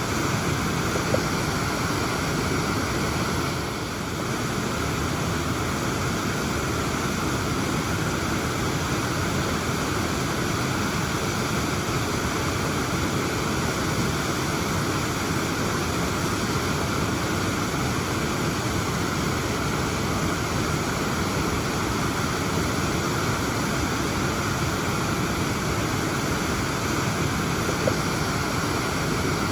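Waterfall pouring steadily, a constant, even rushing of falling water.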